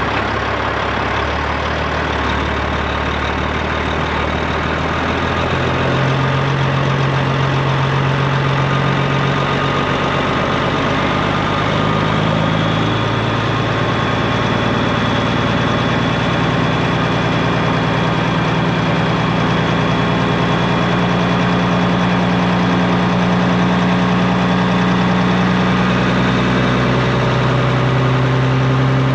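Straight-piped Peterbilt 389 semi truck's diesel engine running steadily, its low exhaust note stepping up in pitch a few times and dropping back once near the end.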